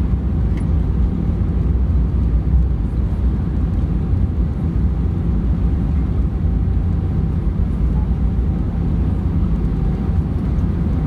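Airbus A320 cabin noise heard from inside the cabin: a steady low rumble from the aircraft with a faint steady hum above it.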